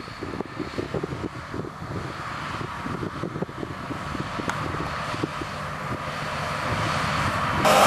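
Eight-wheel-drive fertilizer spreader truck approaching, its engine and running gear growing steadily louder with irregular low knocks and rattles, then jumping sharply louder near the end.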